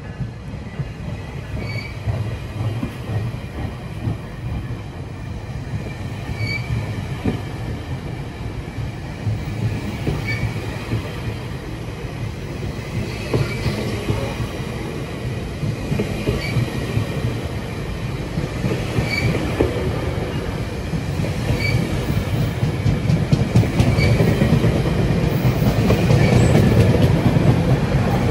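GO Transit bilevel passenger coaches rolling past the platform as the train departs. Their steel wheels make a steady rumble on the rails that grows louder as the train picks up speed, with short high wheel squeaks every few seconds.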